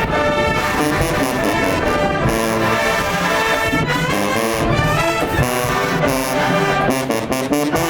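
Brass band playing a loud tune, with trombones and trumpets holding notes and a quick run of percussion hits about seven seconds in.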